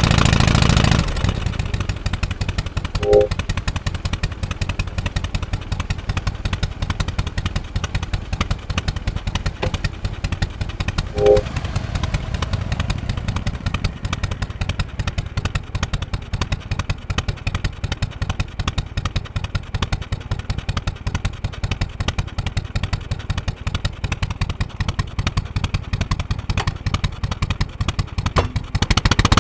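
Harley-Davidson FXSTC Softail Custom's 1340 cc Evolution V-twin running at an even idle, its firing pulses coming steady and regular after the engine note drops about a second in. Two short pitched beeps cut through, about 3 and 11 seconds in.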